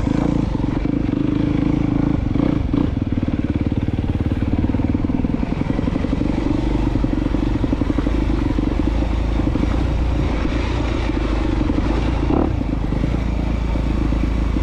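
2022 Honda CRF250R's single-cylinder four-stroke engine running steadily at low revs while the bike is ridden slowly, with a couple of short knocks, one about two seconds in and one near the end.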